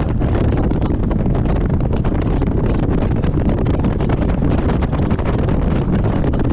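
Strong wind buffeting the microphone on a moving boat: a steady, loud, low rumble with no pauses.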